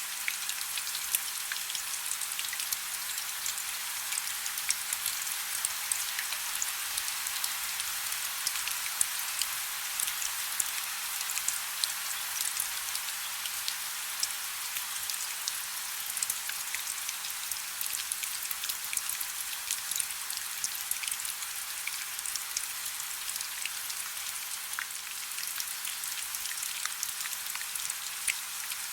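Soft rain: a steady, even hiss of fine drops, with many small sharp ticks of single drops landing.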